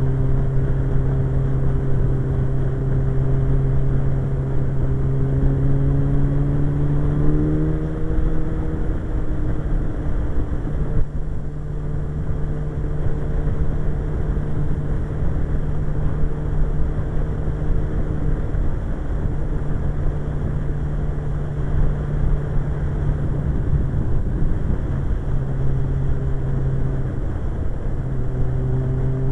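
Suzuki GSX-R 1100's inline-four engine running at a steady cruise while riding, its pitch rising slowly over the first several seconds and dropping briefly about eleven seconds in before holding steady, with heavy wind rumble over the microphone.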